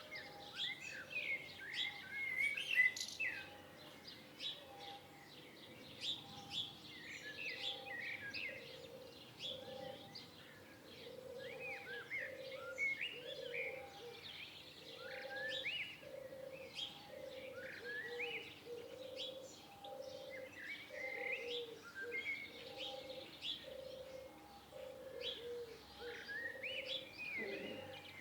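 Several songbirds chirping and whistling in short rising and falling notes, over a low note that repeats about once a second throughout.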